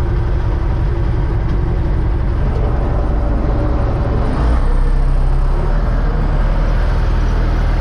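UTB U650 tractor's four-cylinder diesel engine running steadily, growing louder about four and a half seconds in.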